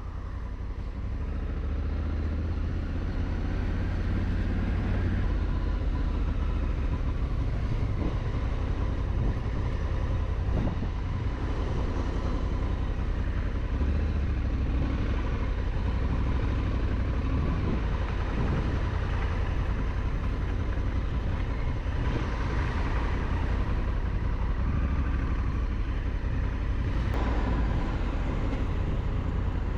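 Steady low rumble of wind and road noise from riding a Honda Africa Twin motorcycle, the rumble swelling and easing every few seconds.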